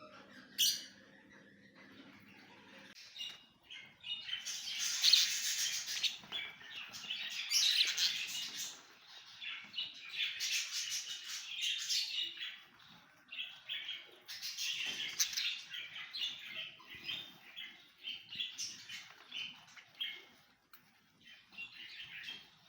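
Many caged birds chirping and twittering together in dense, overlapping bursts, starting a few seconds in. A low steady hum and one sharp click come before it.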